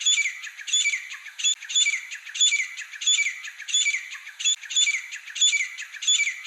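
Grey francolin calling, a loud, repeated "ka-tee-tar, tee-tar": short phrases about twice a second, each ending in a falling note.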